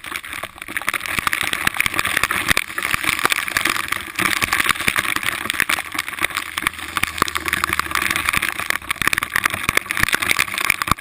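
Off-road vehicle engine running, its level rising and falling quickly.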